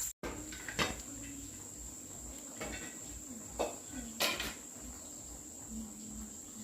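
Insects keeping up a steady high-pitched drone, with a few light knocks and clinks scattered through.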